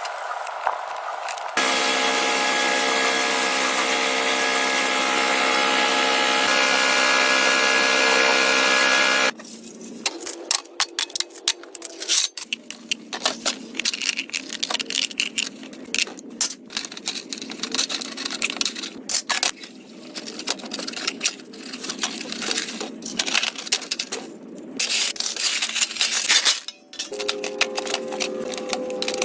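A power tool runs steadily for about eight seconds. Then comes a long run of sharp clicks, knocks and scrapes from hand work on metal parts.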